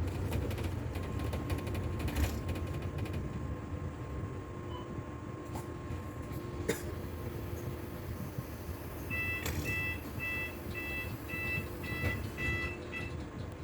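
Steady rumble inside a moving bus. About two-thirds of the way in, an electronic beeper sounds a quick run of eight or nine short two-tone beeps, about two a second.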